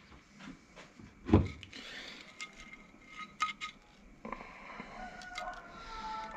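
Light metal clicks and clinks of transmission parts being handled, with one louder knock about a second in, as the bearing cover and its retaining washer are fitted.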